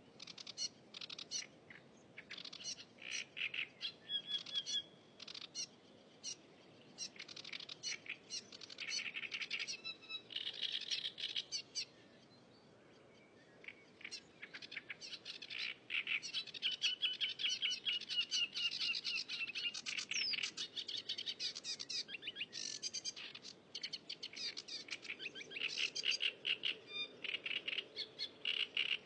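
A cigrok songbird singing busily: repeated bursts of rapid, high chirps and trills, with a short pause about twelve seconds in.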